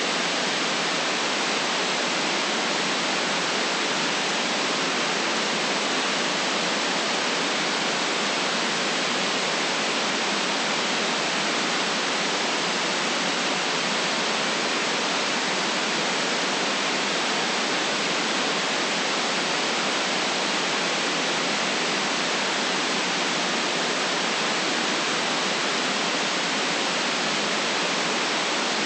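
Steady synthetic white noise: an even, unchanging hiss without rhythm or events, band-limited so that it has no deep rumble and no top above about 9 kHz.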